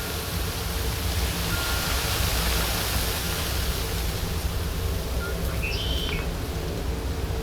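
Steady outdoor background noise with an uneven low rumble, and a brief high bird chirp about six seconds in.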